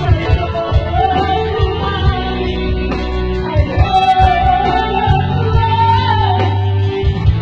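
A woman singing long held notes that slide up and down, over backing music with a steady bass line and beat.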